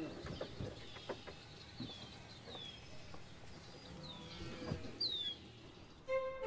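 Birds calling: several short, high chirps that fall in pitch, the one about five seconds in the loudest, over a few faint low knocks. String music comes in near the end.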